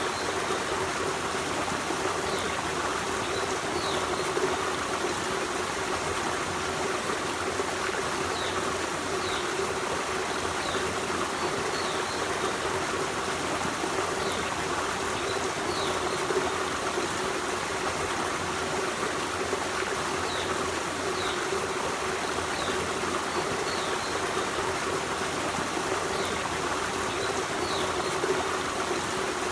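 Forest stream running over rocks in a steady, even rush of water. Short faint high chirps sound now and then through it.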